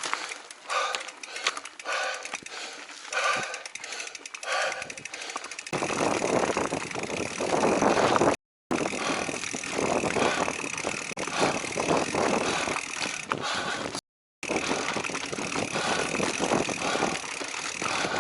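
Mountain-bike ride heard from a helmet camera: for about six seconds the rider's hard, rhythmic panting, then a sudden loud rush of wind and tyre noise on the dirt trail as speed picks up, cut by two brief dropouts to silence.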